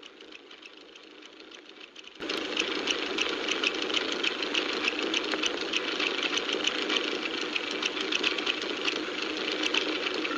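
Faint hiss for about two seconds, then a car engine comes in suddenly and runs steadily with a fast ticking rattle, heard on an old film soundtrack.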